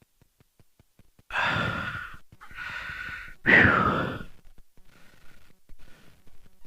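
A person's heavy, breathy exhales ending in a loud 'whew' that falls in pitch.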